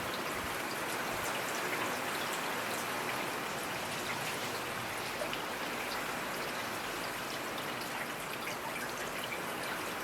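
Steady rainfall: an even hiss of rain with many small drops ticking on surfaces.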